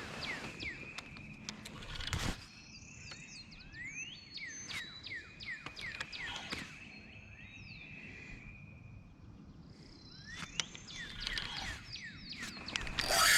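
Birds singing: runs of quick downward chirps, several a second, with thin whistled notes between them. A single knock sounds about two seconds in, and a louder rustling noise comes near the end.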